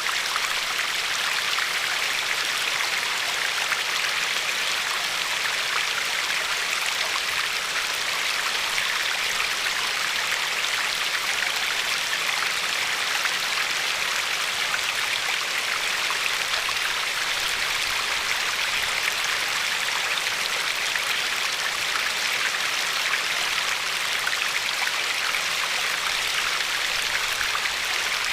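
River water flowing over a pebbly shore, a steady, even rushing with fine crackling and lapping.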